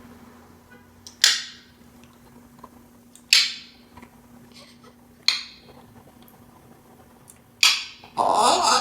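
African grey parrot making four short, noisy, sharp-edged sounds about two seconds apart, then starting to chatter just before the end.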